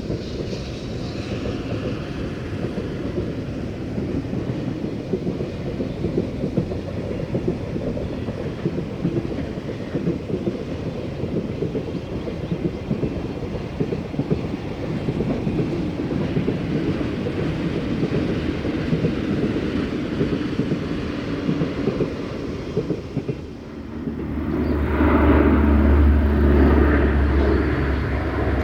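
Freight train running past on the rails: a steady rumble of wagons with the clatter of wheels over the track. About 23 seconds in it breaks off and a louder sound with a deep steady hum takes over.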